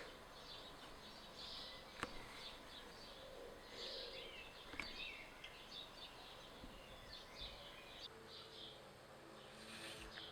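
Faint birds chirping, with a few soft clicks; quiet low music notes come in near the end.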